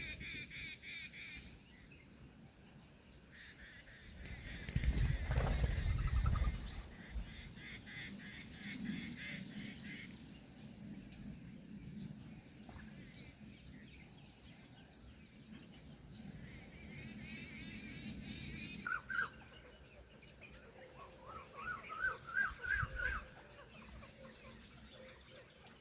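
Birds calling: rapid, pulsed high chattering, then a quick series of short rising notes near the end, with a loud burst of low fluttering rumble about five seconds in.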